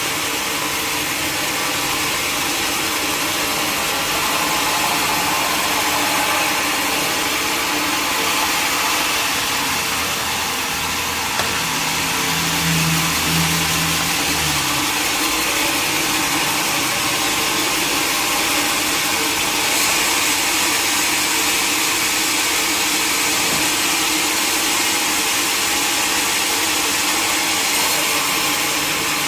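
Sawmill machinery running steadily, a continuous loud mechanical whirr. A low drone joins for about three seconds, roughly twelve seconds in.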